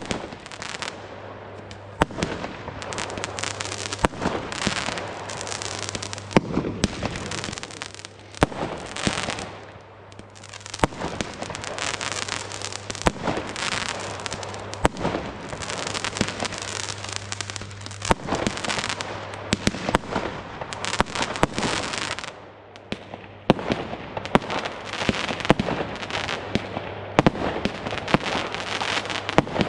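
WECO Ironheart 103-shot compound fireworks cake firing: a rapid, continuous run of shots launching and bursting, with crackling stars between the sharp reports. The barrage dips briefly about two-thirds through, then picks up again.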